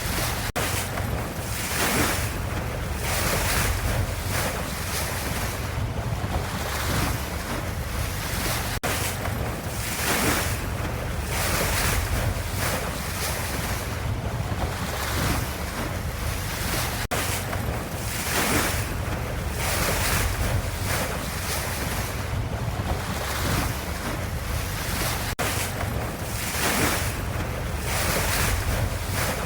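Ocean waves washing, with a surge of surf every second or two over a steady low rumble. It is a short loop with a tiny break about every eight seconds, where the same pattern starts over.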